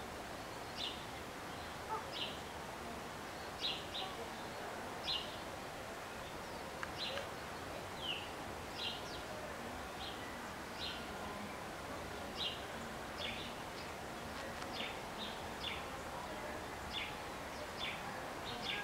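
A bird chirping over and over, short high chirps about once a second, over a steady outdoor background hiss.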